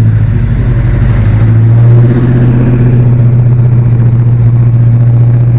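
A car engine running loudly at a steady idle close by, swelling slightly about two seconds in.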